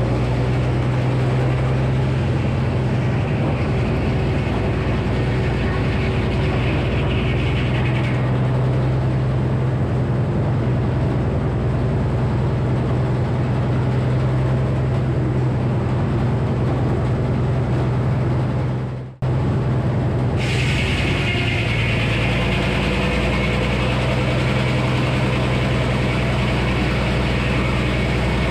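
Frick sawmill running with its 48-inch circular saw, a loud steady engine drone throughout. A higher sawing noise is heard for the first several seconds and again from about two-thirds through. The sound cuts out abruptly for a moment just before that.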